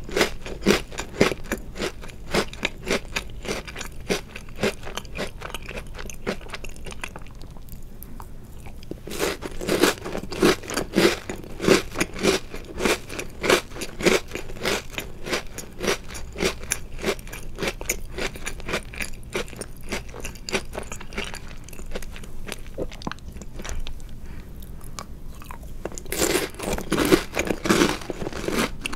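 Close-miked chewing of chocolate-covered Oreo cookies, a dense run of crisp crunches several times a second. The crunching eases off twice, in the middle and in the last third, and picks up loudly again near the end.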